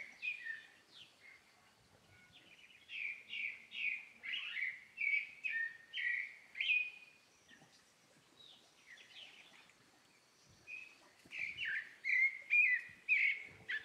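Small birds chirping: short, quick, downward-sliding chirps in runs of about two a second. There is a lull of a few seconds in the middle before the chirping picks up again near the end.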